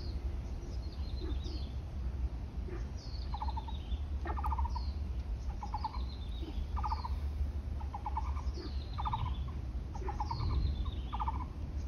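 Birds calling: a short, low rattling call repeated about once a second, alternating with high falling whistles, over a steady low rumble.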